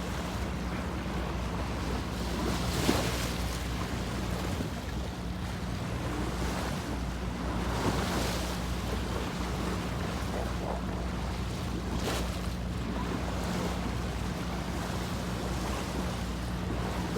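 Water rushing and splashing along a moving boat's hull, with wind on the microphone and a steady low hum underneath; the splashing swells a few times.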